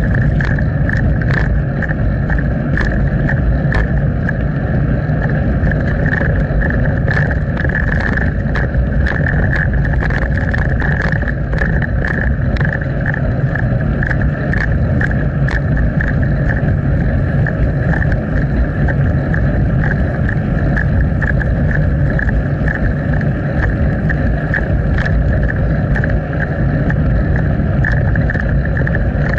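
Wind rumbling on the microphone of a bicycle-mounted action camera and the bike running over the road, with many small clicks and rattles from bumps.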